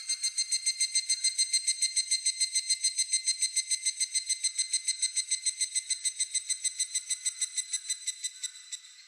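Higurashi (evening cicada) calling: a high-pitched, rapidly pulsed trill of about eight pulses a second that swells quickly, then slowly fades and dies away near the end.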